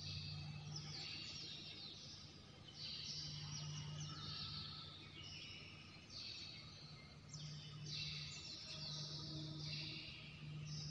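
Faint chirping of small birds, call after call about once or twice a second, over a steady low hum.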